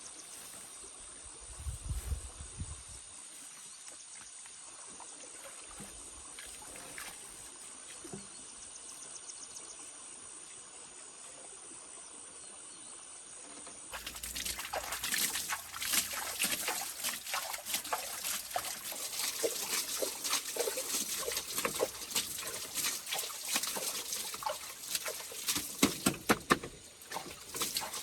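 Water being poured and splashed in irregular bursts, starting suddenly about halfway through. Before that only a steady faint hiss with a thin high tone, and a dull thud about two seconds in.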